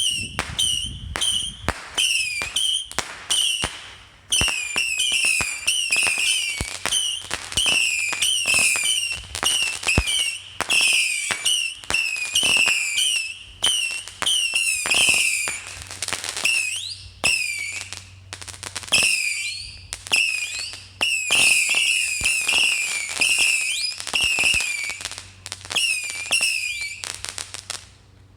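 Small whistling firework rockets going off in rapid succession, several a second, each a sharp pop and a short whistle that dips in pitch. The barrage lets up briefly a few times and stops just before the end.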